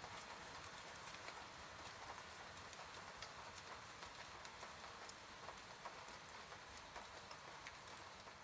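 Soft rain on a window: a faint, steady hiss with many small, scattered drop taps.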